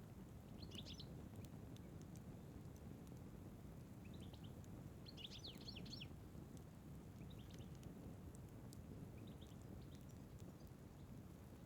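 Small birds chirping in a few short bursts, the busiest about five seconds in, over a faint steady low rumble of outdoor background noise.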